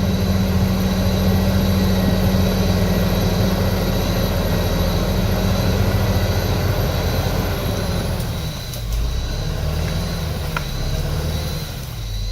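Heavy earthmoving machine's diesel engine running steadily under work, its low note shifting and dropping about two-thirds of the way through.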